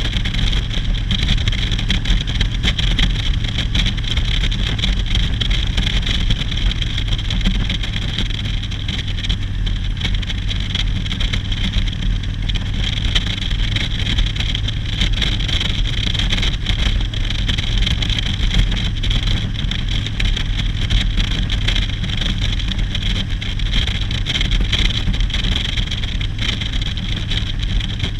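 Motorcycle engine running steadily while riding, without revving up or down.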